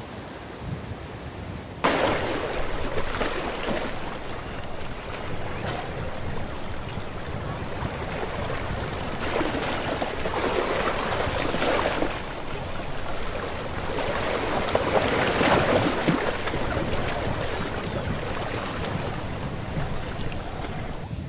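Wind and the ferry's churning wake rushing past on an open deck, a steady noisy rush that jumps up suddenly about two seconds in and then swells and eases in several gusts.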